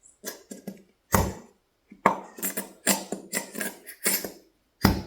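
Handling noises: a run of short knocks and rasping, scraping strokes as things are worked and handled, with a heavy thump about a second in and another near the end.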